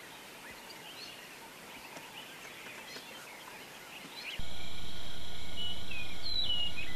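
Quiet outdoor ambience with faint, scattered bird chirps. About four seconds in it switches abruptly to a louder steady hum, over which a bird gives several short falling calls.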